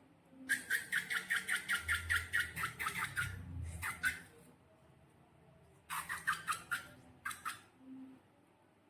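Slime squelching and clicking in quick wet clicks as it is squeezed and stretched, with a dull handling rumble under the first run. There are two runs, the second starting about six seconds in.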